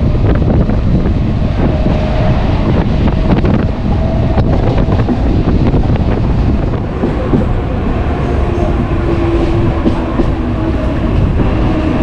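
Mumbai suburban local electric train running between stations, heard from on board: a loud, steady rumble with the wheels clattering over the rails.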